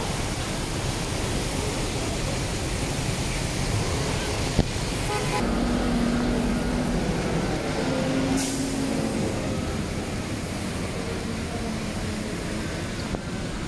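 Heavy rain hissing down on a wet city street, with traffic running through it. About halfway through, a low steady drone from a passing vehicle comes in twice, for a second or so each time.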